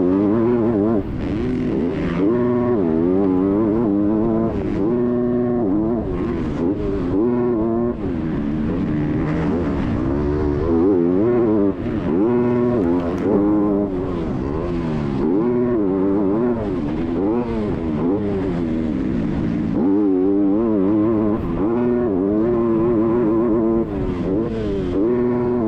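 Motocross bike engine revving hard, its pitch climbing and dropping over and over every second or two as the throttle is worked through the track.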